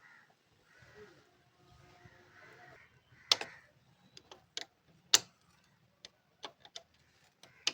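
Irregular sharp clicks and taps from hand tools working on the engine's valve gear, with two louder knocks about three and five seconds in.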